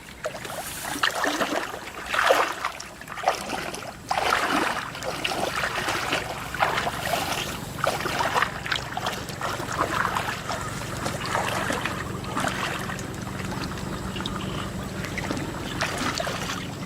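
Shallow water splashing and sloshing in irregular bursts in a flooded rice field.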